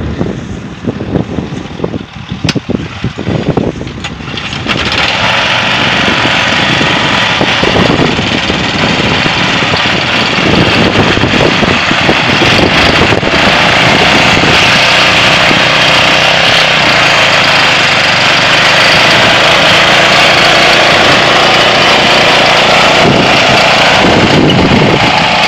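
Single-cylinder Briggs & Stratton 6 HP engine of a homemade small tractor running. It is uneven for the first few seconds, then becomes louder and steady about five seconds in.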